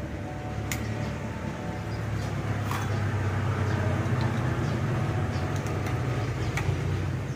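A low, steady, engine-like rumble that grows louder about two seconds in, with a few light clicks.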